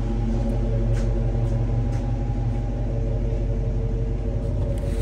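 A 2012 Dodge Challenger R/T's 5.7-litre Hemi V8 idling steadily.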